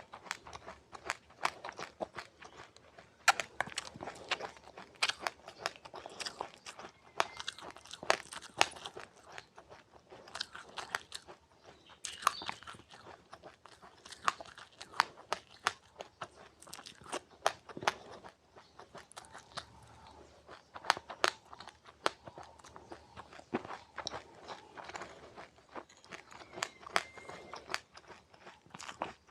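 A person chewing crunchy seeds with passion fruit, heard close up: an irregular run of sharp crunches and crackles, several a second.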